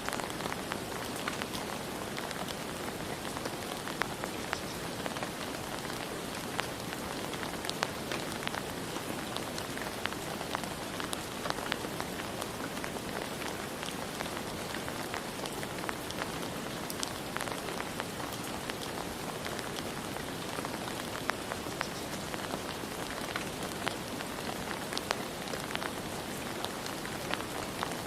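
Steady rain falling and pattering on surfaces, with many individual drops ticking over the hiss.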